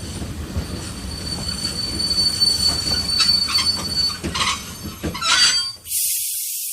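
Sound effect of a steam train braking with heavy brakes: a low rumble under a steady high squeal of wheels and brakes, with a few short screeches near the end. About six seconds in, the rumble cuts off and a sudden loud hiss takes over.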